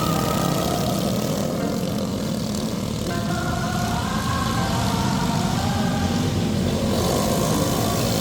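Several go-kart engines, Harbor Freight small single-cylinder four-stroke engines, running together in a race, their pitch rising and falling as they rev and ease off.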